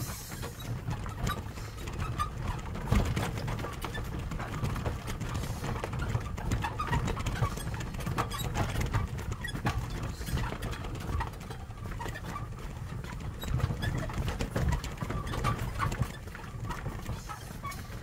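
Carabao-drawn cart moving along a rough path: an uneven stream of knocks and rattles from the cart and the animal's plodding steps, over a low rumble.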